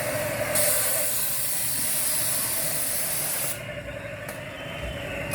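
Children's airplane ride machinery running: a steady hum with a loud hiss that starts about half a second in and cuts off sharply about three and a half seconds in.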